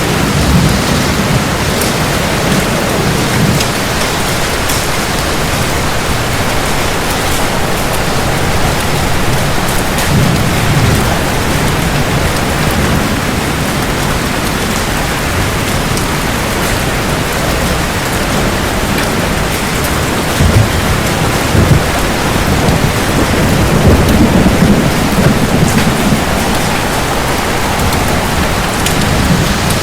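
Steady heavy rain hissing on hard surfaces, with deep thunder rumbling underneath that swells several times, loudest a little after two-thirds of the way through.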